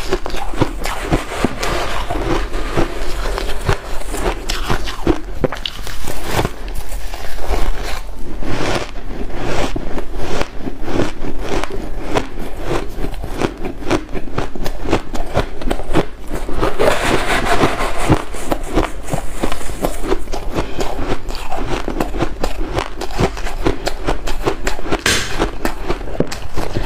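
Close-up crunching and chewing of white ice in the mouth: a dense, irregular run of crisp crackles and crunches with no pause.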